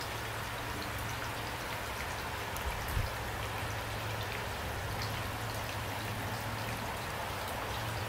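Steady rain falling at night, an even hiss with scattered individual drop ticks. A low hum sits underneath, and a soft low thump comes about three seconds in.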